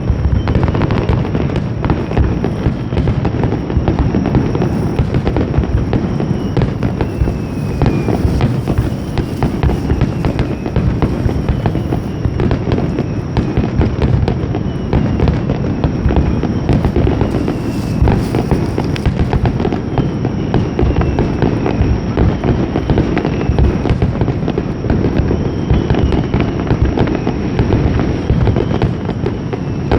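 Fireworks display: a dense, continuous barrage of aerial shell bursts and crackling with no gaps, and short falling whistle-like tones recurring every couple of seconds.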